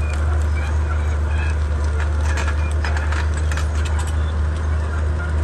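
Komatsu D31P bulldozer's diesel engine running with a steady low drone, with a flurry of short sharp clicks and clanks in the middle.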